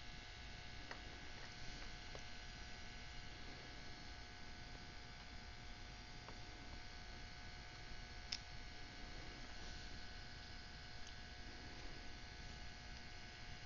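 Steady faint electrical hum with a few faint light clicks; the sharpest click comes about eight seconds in.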